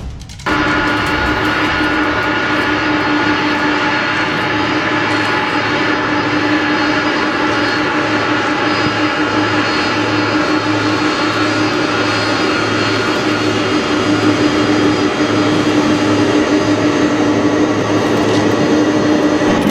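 Large airplane's engines running steadily, with a strong droning hum and several steady whining tones over a rush of noise. The sound cuts in about half a second in and grows slightly louder toward the end.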